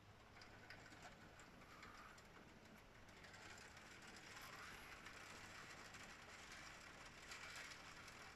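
Faint steady rain heard through a window, with scattered light ticks of drops striking the glass and sill.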